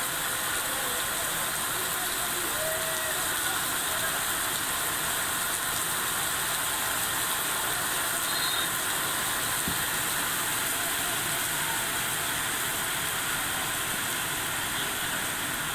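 Steady heavy rain, an even hiss of rainfall with no break.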